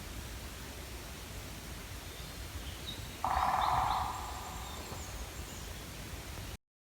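Woodpecker drumming on wood: one short, very fast drum roll about three seconds in, under a second long, over a steady outdoor background with faint high bird calls. The sound cuts off abruptly near the end.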